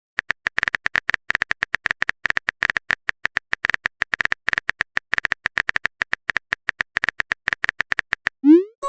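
Typing sound effect: rapid, irregular keystroke clicks, several a second, as a message is typed out. Near the end the clicks stop and a short rising swoop follows.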